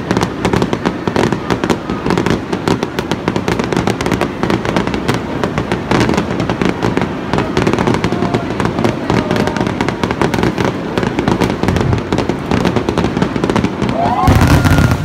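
Fireworks crackling and popping in a dense, almost unbroken run of sharp bangs. A louder rush comes in near the end.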